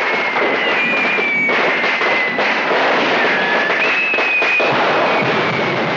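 A store of fireworks going off all together: a dense, continuous crackle of bangs and pops, with long whistles that fall slowly in pitch and start again higher several times.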